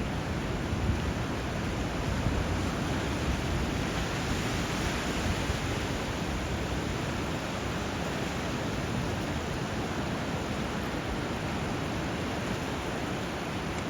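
Steady rush of flowing water where a river runs into the sea, an even hiss and roar without distinct surges or calls.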